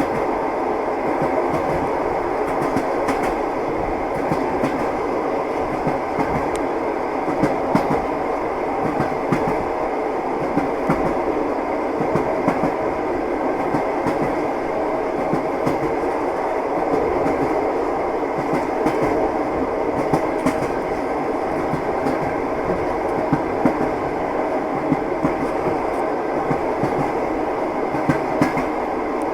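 Moving train's wheels clattering on the rails: a steady rumble with occasional sharper knocks.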